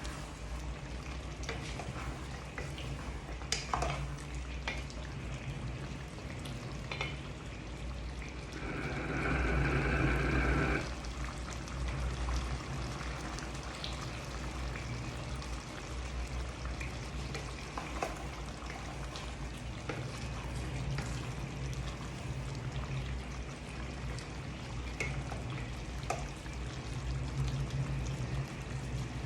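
Chicken curry cooking in a pot: a steady frying and bubbling over a low hum, with a few sharp clinks of a utensil against the pot. A louder liquid sound of about two seconds comes about nine seconds in.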